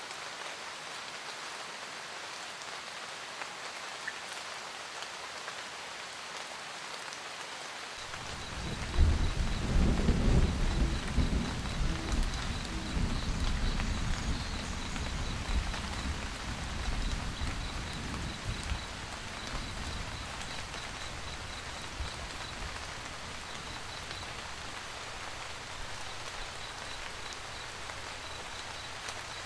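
Steady rain, with a rumble of thunder that rolls in about eight seconds in, is loudest a couple of seconds later and fades away over roughly ten seconds. A faint, regular high-pitched chirping runs under the rain from the middle on.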